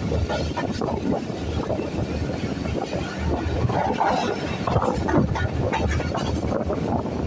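Hazara Express passenger train running along the track, heard from a coach window: a steady rumble of wheels on rail with irregular clacks and rattles.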